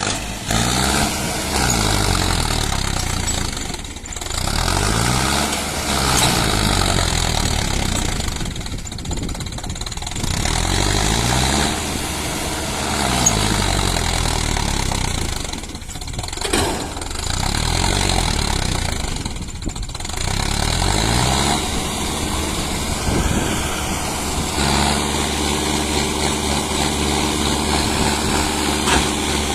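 Mahindra Novo 605 4x4 tractor's diesel engine revving up and dropping back several times, its pitch rising and falling in long swells, then running at a steady speed for the last few seconds.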